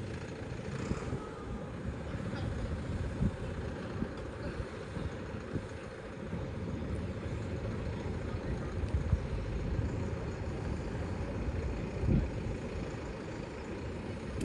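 Tractor engines running with a steady low rumble, a few brief knocks over it.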